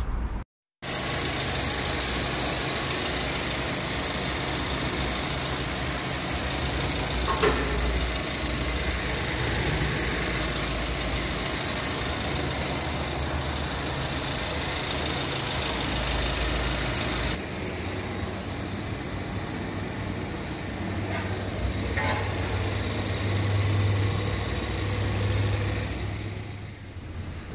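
Jetour X90's engine running steadily at idle, heard from under the car by the dual-clutch transmission.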